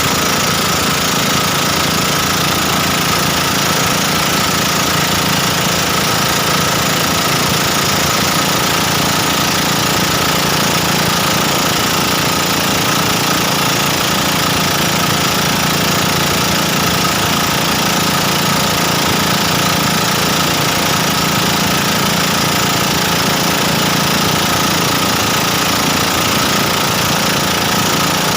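Motorboat engine running steadily at a constant speed: an even drone with a steady whine above it.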